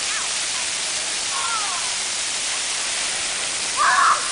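Water fountain splashing with a steady rush of falling water. A short, high-pitched call cuts through it near the end.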